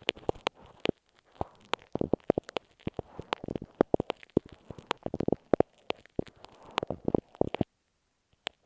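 A glue stick rubbed and tapped against masking tape covering an earphone microphone, heard very close as dense, irregular crackling and clicking. It stops about three quarters of the way through, leaving a couple of single clicks.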